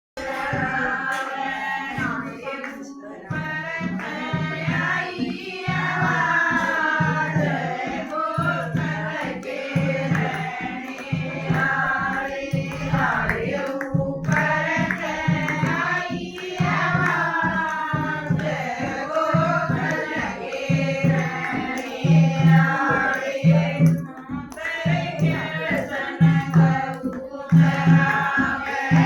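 A group of voices singing a Haryanvi devotional bhajan to Krishna, with a steady low drum beat under the singing.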